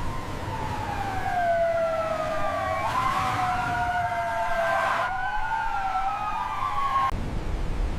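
Several emergency vehicle sirens wailing together, their pitches slowly rising and falling and crossing one another. They cut off suddenly about seven seconds in, leaving a low rumble of wind-like noise.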